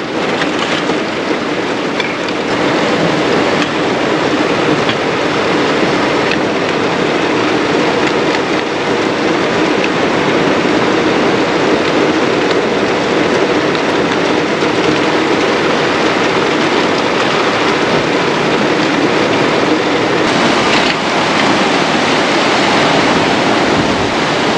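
Heavy rain falling steadily on and around the car, a dense, even hiss with no breaks.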